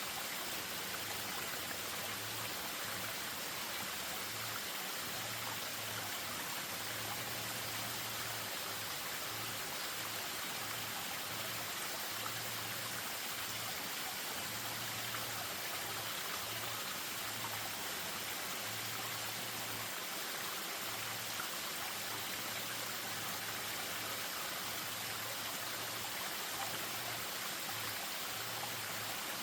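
Spring-fed stream spilling over a small waterfall in a ravine: a steady rush of running water.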